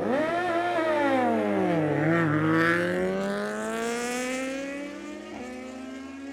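Racing superbike engines at full throttle on a drag run, starting suddenly. The engine note climbs, then drops over the first two seconds, then climbs again in a long rising note that eases off near the end.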